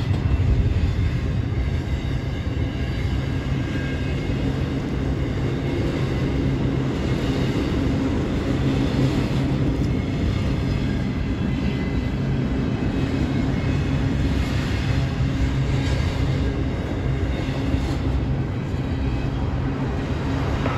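Double-stack intermodal freight cars rolling past: a steady rumble of steel wheels on rail.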